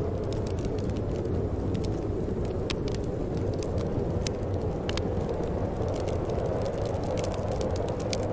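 Steady wind rushing with a low rumble, with scattered small crackles of a fire throughout.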